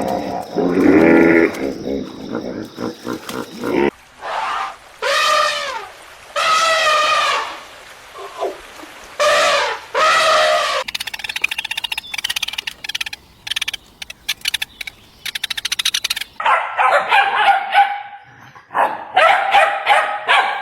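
Dog calls: a few separate drawn-out whines, a stretch of rapid ticking, then a quick run of short yips and barks near the end.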